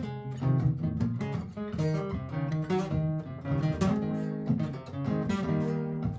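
Martin GPCPA4 acoustic-electric guitar playing through a looper pedal, a run of plucked and strummed notes over a looped guitar part.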